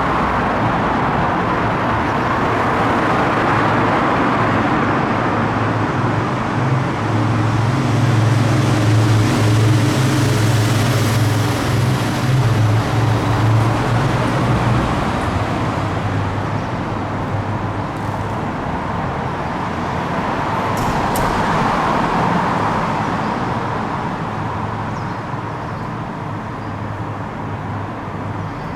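Heavy diesel truck engine running amid road traffic noise, its low engine hum strongest from about seven to fifteen seconds in.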